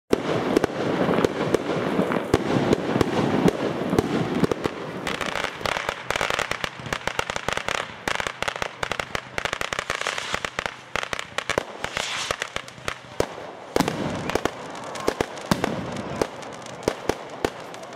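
Fireworks going off: a dense, rapid crackle of many small bangs over a hiss, thinning out and getting quieter over the last few seconds.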